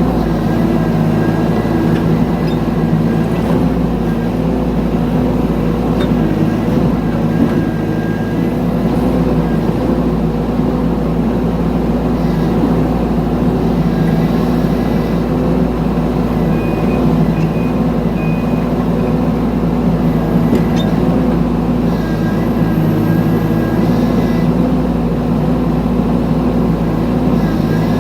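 Mini excavator engine running steadily at a constant speed while the machine digs.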